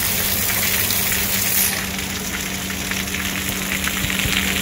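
Heavy rain falling with a steady hiss, and water pouring off a roof edge and splashing onto a concrete path. From about two seconds in, many small splashes crackle through the hiss.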